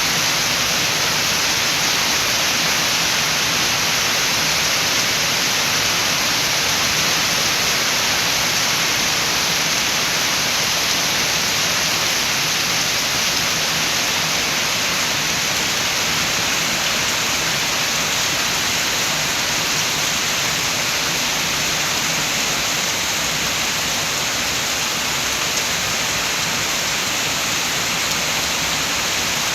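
Steady rain falling, a dense, even hiss that holds at the same level throughout.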